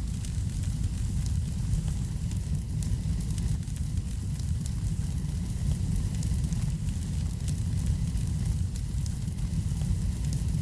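Wood fire crackling in a fireplace: frequent small crackles and pops over a steady low rumble.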